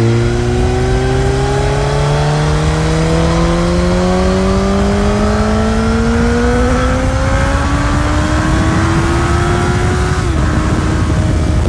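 Suzuki GSX-S1000 inline-four engine on its stock exhaust, pulling under steady acceleration, its pitch rising evenly for about ten seconds, then dipping slightly near the end. Wind rush grows as the speed builds.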